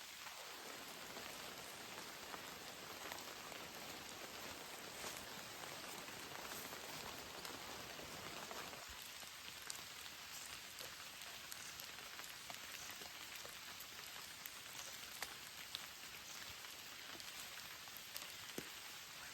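Steady rain falling, with scattered sharper drops ticking out of the even patter.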